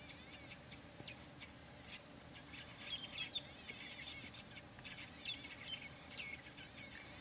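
Small birds chirping: a faint chorus of short, high calls, busiest about three seconds and five seconds in, over a thin steady high whine.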